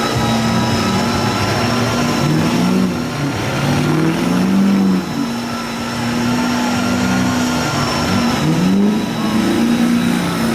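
Large off-road truck engine revving up and down several times, its pitch rising and falling, with a steady high whine over the engine.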